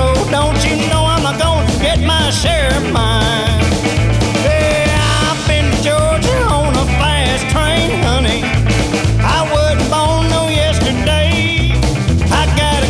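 Outlaw country band music in an instrumental passage: bending lead lines over bass and a steady drum beat.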